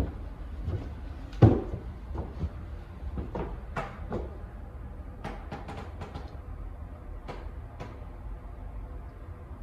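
Footsteps going up a wooden staircase: a string of irregular knocks and thumps, the loudest about one and a half seconds in and a quick cluster around five to six seconds.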